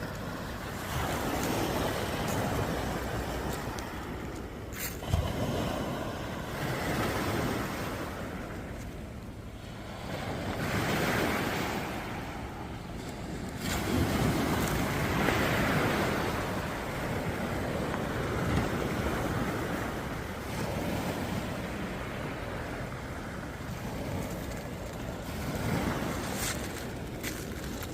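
Sea waves breaking and washing ashore, the surf swelling and fading every few seconds, with wind on the microphone and a brief sharp knock about five seconds in.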